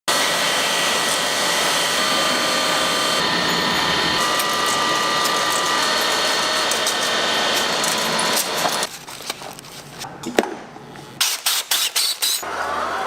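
Machinery running with a steady, dense clatter and a few held whining tones, which drops away about eight and a half seconds in to a quieter stretch with a quick run of sharp clicks near the end.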